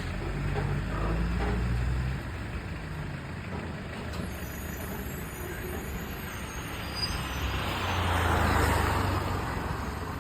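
Heavy truck's diesel engine running in road traffic, its low drone strongest in the first two seconds. About eight seconds in comes a louder rushing swell.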